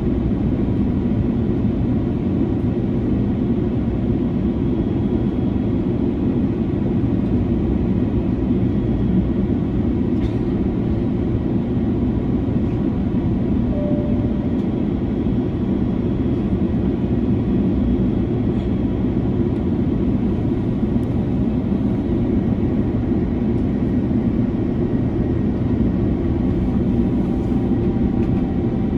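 Steady cabin noise of an Airbus A330-300 airliner at cruise: an even, deep rumble of airflow and engines heard from inside the passenger cabin, unchanging throughout.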